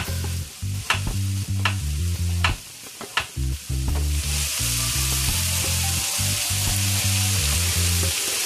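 Ackee, saltfish and carrots frying in oil in a skillet, with knife chops on a cutting board about once a second in the first three seconds. About four seconds in, the sizzle grows much louder and stays steady as fresh carrot slices go into the hot pan. Background music with a steady bass line plays underneath.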